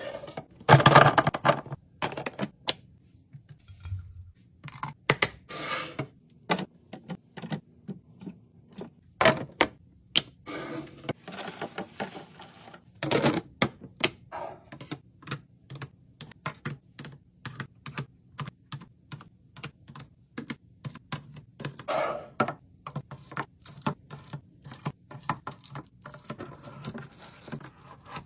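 Fridge restocking: items and containers being handled and set down, a quick, irregular run of clicks, taps and knocks with several louder clatters.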